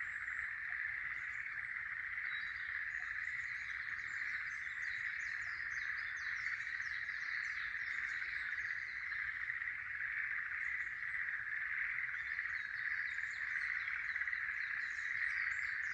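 A steady, dense chorus of frogs, the loudest sound throughout, with birds singing over it in short repeated phrases. The birdsong is busiest from about two to nine seconds in and again near the end.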